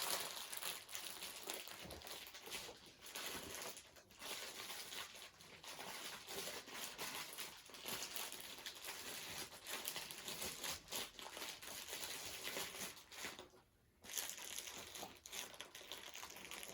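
Small plastic bags of diamond-painting drills crinkling and rustling as they are packed down into the kit box, with light clicks and taps throughout and a short pause near the end.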